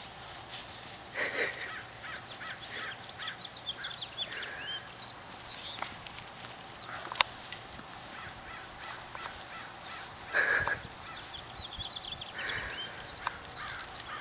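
Birds calling: many short, high, falling chirps throughout, with louder, harsher calls about a second in, around ten seconds in and shortly after. A single sharp click sounds about halfway through.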